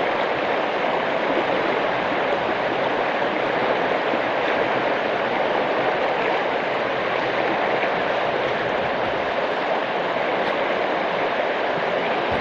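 Steady, even rushing noise of a storm, with no break or change in level.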